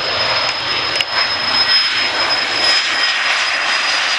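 Jet airliner engines running steadily, a loud even rush with a high steady whine over it, and a brief click about a second in.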